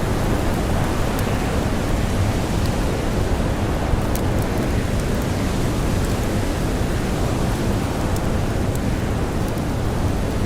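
Steady rush of blizzard wind and blowing snow, with small pops and crackles of a campfire scattered throughout.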